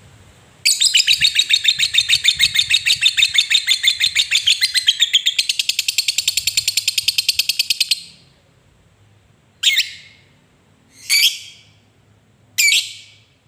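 Lovebird giving its long 'ngekek' chatter: a rapid run of sharp, high repeated notes lasting about seven seconds that gets faster partway through. Three single short calls follow.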